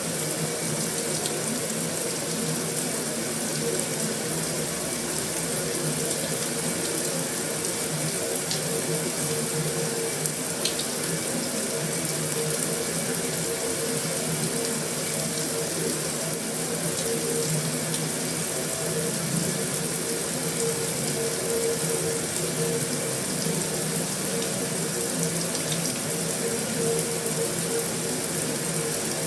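Heavy rain on a metal roof: a steady, even hiss of falling water with a few faint sharper ticks of drops.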